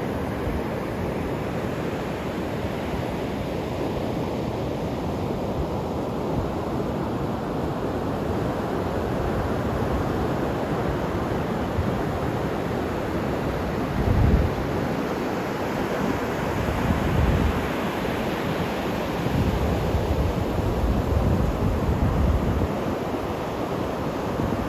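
Sea surf washing steadily, with wind buffeting the microphone in low gusts several times in the second half.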